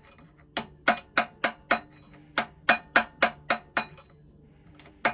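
Hammer tapping on metal in quick, even blows, each with a short metallic ring: a run of five, a brief pause, then a run of six, about three to four a second.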